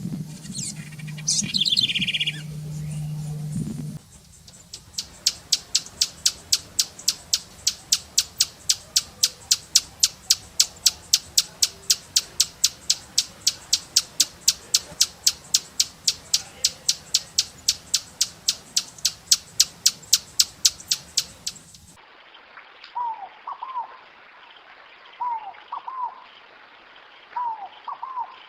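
Forest birds calling in spliced recordings: first a short falling chirp over a low hum, then a long run of sharp, evenly repeated notes about three to four a second, and after a sudden cut, soft down-slurred notes in pairs.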